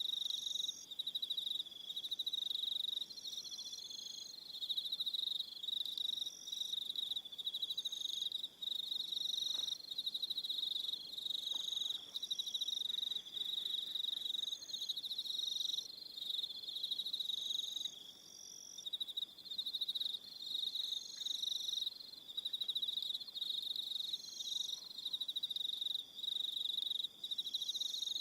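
Evening chorus of crickets chirping, a continuous high-pitched pulsing trill, with shorter, higher trills from other insects starting and stopping every second or two.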